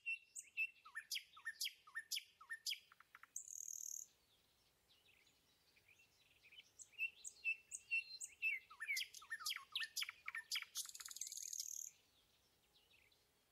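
Songbird singing: two bouts of quick, downward-sliding whistled notes, each ending in a harsh rasping buzz, the second bout starting about six and a half seconds in.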